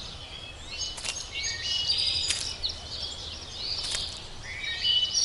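Several small birds chirping and twittering in short, high notes, with a few faint clicks among them.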